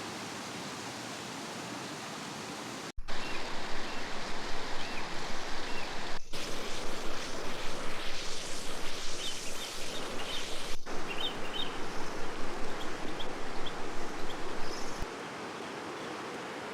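Running river water, a steady rushing with a rapidly fluctuating, splashy texture that is louder through the middle stretch. Faint short chirps sound over it around the middle.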